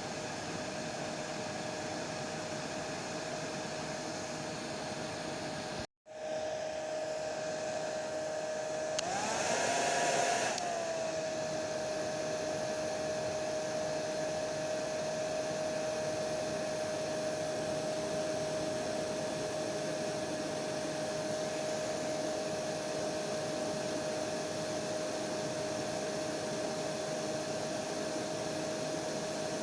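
Electric hair dryer running steadily: an even blowing noise with a constant whine. About six seconds in the sound cuts out for an instant. A few seconds later it briefly gets louder and its whine rises in pitch, then settles back to the same steady run.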